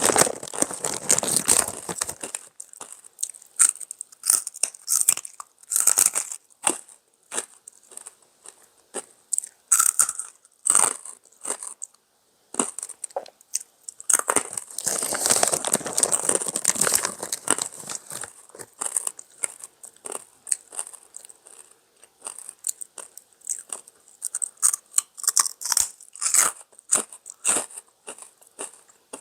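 Close-up crunching and chewing of crispy fried pork rinds (fat back skins), with two long spells of dense crunching, one at the start and one about a third of the way through, and sparser sharp crackles and chews between them.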